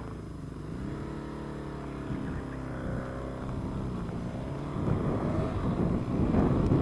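A road vehicle's engine running as it drives off: its pitch climbs over the first second or two, holds steady, then falls away about four and a half seconds in. After that, wind rushing over the microphone gets louder.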